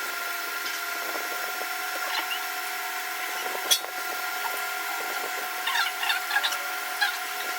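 A steady machine hum made of several even tones, with light crinkling of a chocolate bar wrapper in short spells about six and seven seconds in.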